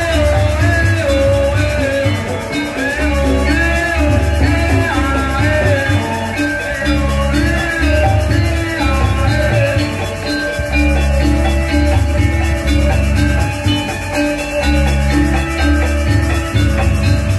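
Balinese gamelan playing live, with bronze metallophones ringing over heavy, regularly recurring drum and gong strokes. A gliding melody line sounds above them in the first half.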